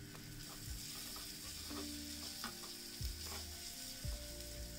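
Bhaji masala sizzling in a miniature frying pan while a small metal spoon stirs in chopped peas and carrots, with a few light clicks of the spoon against the pan.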